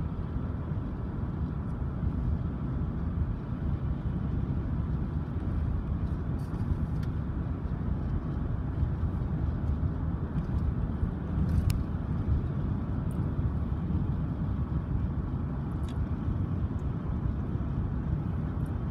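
Train rolling past: a steady low rumble of wheels on rail, with a few faint high clicks and squeaks.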